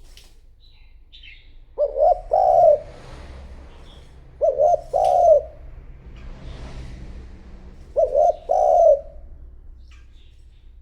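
Spotted dove cooing, three times: each call is two short notes followed by a longer, fuller coo. It is a decoy bird's call meant to lure in wild doves.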